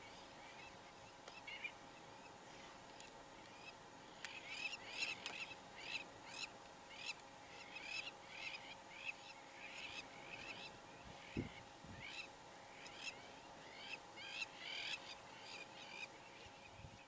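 Birds calling: a long series of short, harsh calls, one or two a second, over a faint steady hum.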